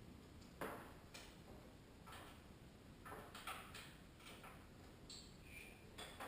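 Faint, scattered clicks and light knocks, about eight over several seconds, against near silence.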